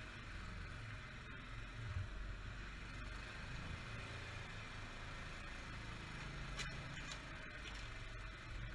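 Quad bike (ATV) engine idling faintly, a steady low hum.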